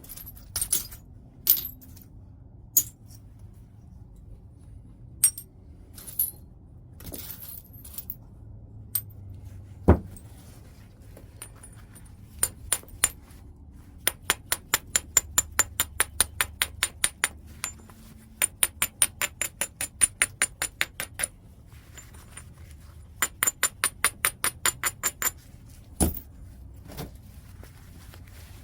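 Flintknapping a large piece of white chert: sharp stone-on-stone clicks and taps, with runs of quick, even light taps of about five a second. Two heavier strikes land about ten seconds in and near the end.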